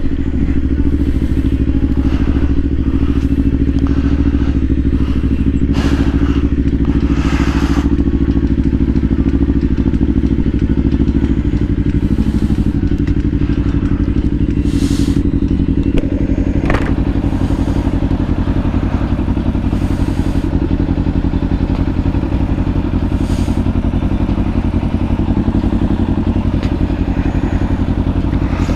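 Kawasaki Ninja 500's parallel-twin engine running steadily at cruise, the engine note shifting slightly about a third of the way through. Occasional short thumps, typical of wind on the microphone, come over it.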